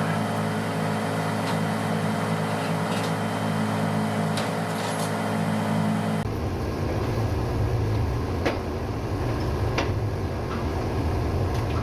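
Ship's engine-room machinery running steadily: a loud, even diesel drone with a few light clicks. The drone changes tone abruptly about six seconds in.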